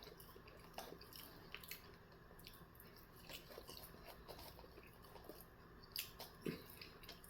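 Faint, close-up chewing: soft wet mouth clicks and small crunches of someone eating, with two slightly louder bites near the end.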